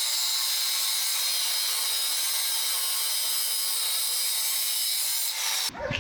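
A power tool working on metal, a steady high hissing rasp that cuts off suddenly near the end.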